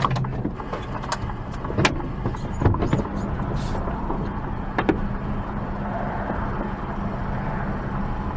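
A car driving, with steady engine and road noise and a few sharp clicks and knocks scattered through.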